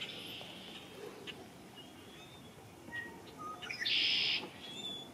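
Songbirds singing: scattered short chirps, then a loud buzzy trill about four seconds in that lasts about half a second.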